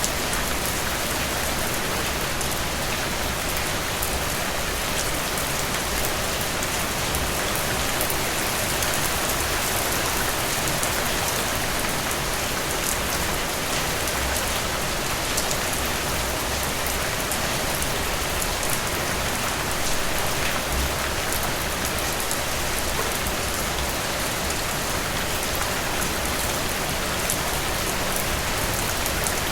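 Heavy rain falling steadily, a dense even hiss of rain on surfaces with countless small drop ticks.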